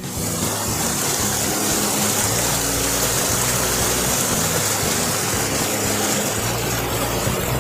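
Steady rushing water of a rainforest stream or small waterfall, an even hiss strongest in the upper range, with soft background music holding low notes underneath.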